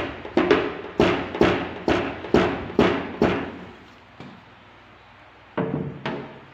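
Paintless dent repair tapping: a hammer and tap-down tool knocking high spots on a car's sheet-metal body line. There are about two sharp taps a second, each ringing briefly. After a pause, two more taps come near the end.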